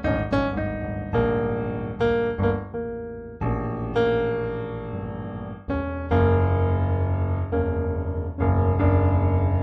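Background piano music: slow struck chords and single notes that ring on, growing louder and fuller about halfway through.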